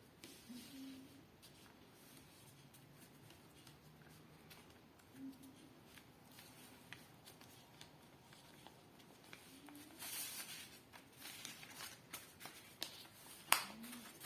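A sheet of paper being folded and creased by hand: faint rustling and crinkling with small clicks. The rustling comes in a thicker burst about ten seconds in, and there is a sharp crease click near the end.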